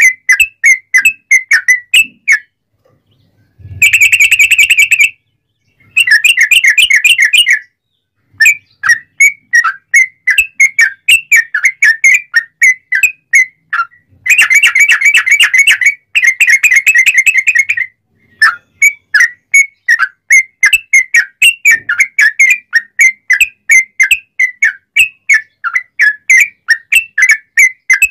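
Yellow-vented bulbul singing loudly: a run of short, clear whistled notes, two or three a second, broken by several fast rolling trills, the longest a few seconds past the middle.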